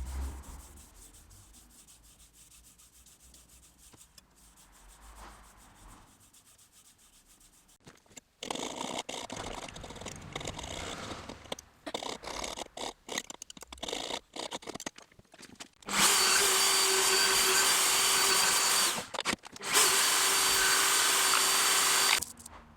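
A power tool at work on the steel blade. After a quiet start it runs in short stop-start bursts, then in two longer, louder runs with a steady whine and a short break between them.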